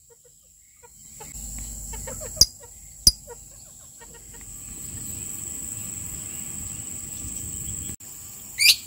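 Birds in a rural yard: two sharp, shrill chirps about a second apart and a falling chirp near the end, with soft clucking of chickens, over a steady high insect drone.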